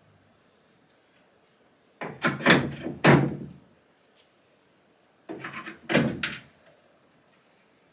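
Sharp knocks and clunks of wood, in two quick clusters about two and five seconds in: used lumber being handled and denailed.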